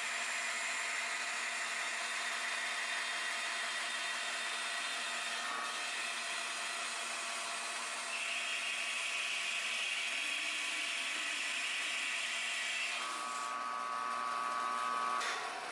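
Metal-cutting bandsaw running steadily while its blade cuts the rosewood box apart, a steady motor sound with a saw hiss. The cut sounds brighter from about halfway through, and a new whining tone comes in near the end.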